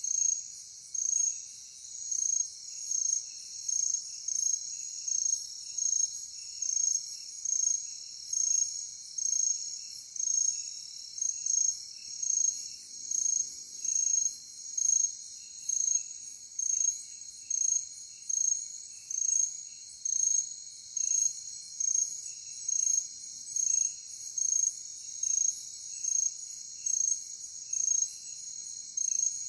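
Night insect chorus of crickets: a steady high trilling with a louder pulsed chirp repeating about once a second, and fainter irregular chirps lower in pitch.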